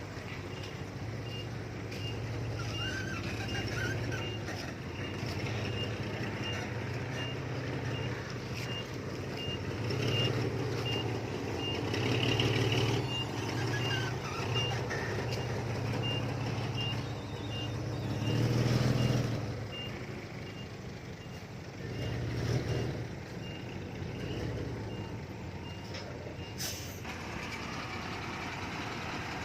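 Diesel engine of heavy earthmoving machinery working, revving up several times, while a reversing alarm beeps steadily at an even pace. The beeping stops a few seconds before the end, and a short sharp hiss follows.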